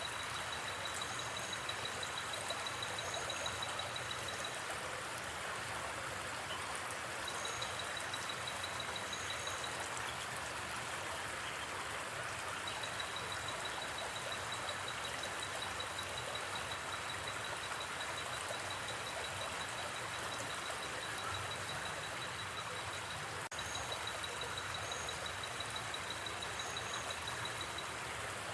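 Steady rush of a gently flowing river, with a high, rapidly pulsing insect trill that comes and goes in long stretches and a few faint higher chirps. One sharp pop, such as a campfire crackle, comes near the end.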